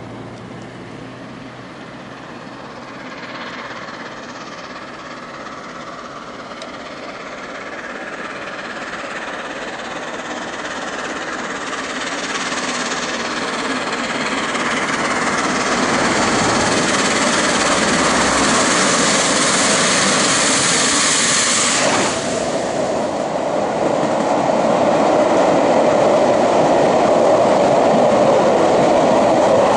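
A1 Pacific steam locomotive 60163 Tornado hauling a passenger train, growing steadily louder as it approaches. About three-quarters of the way through, the sound changes abruptly as the engine goes by, then the carriages roll past with a clickety-clack of wheels.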